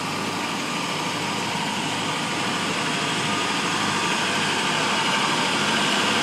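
Steady street noise with vehicle engines running, growing slightly louder toward the end.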